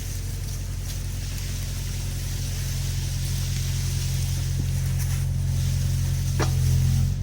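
Excavator's diesel engine running steadily under load, growing gradually louder, with a short high squeak about six seconds in.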